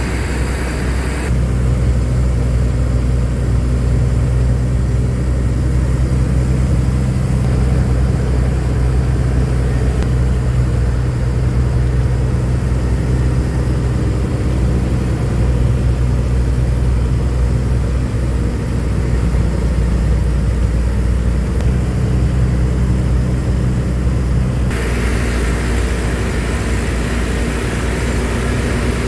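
Truck engine running steadily with a low drone. The hiss above it drops away about a second in and returns near the end.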